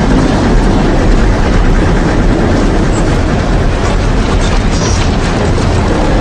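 Loud, steady rushing roar of a violent storm: wind and rain noise blasting the microphone, even and unbroken.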